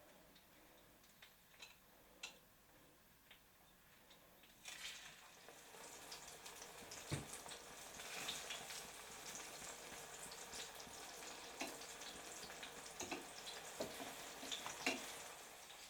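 Food frying in hot oil in a pan: a faint sizzling hiss with scattered crackles and pops that starts about five seconds in and builds a little. Before that, only a few faint ticks.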